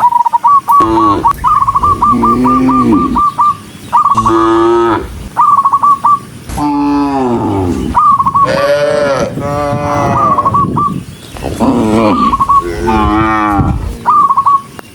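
A herd of cattle mooing, many long overlapping calls at different pitches, some low and some higher and bending. Between them come quick runs of short, high chirping notes, several times.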